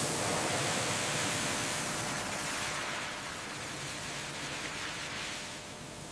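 A loud, steady hiss that starts suddenly and eases a little after about three seconds, with no pitch or rhythm to it.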